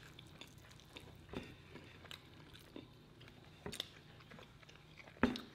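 Close-miked eating: chewing and wet lip smacks with scattered small clicks, over a faint steady hum. A short, louder knock comes near the end.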